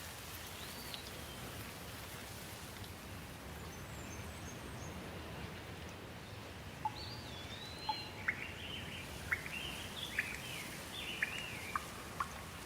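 Steady hiss of rain with birds calling over it. There is a single sliding whistle about a second in, then from about seven seconds a lively run of short chirps and sliding whistles.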